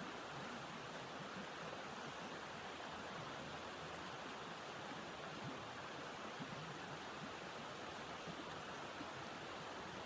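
A steady, even rushing noise that holds at the same level throughout, with no breaks.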